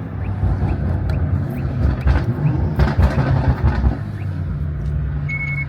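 Car engine idling. It rumbles unevenly for about the first four seconds, then settles into a steady drone. A short high beep sounds near the end.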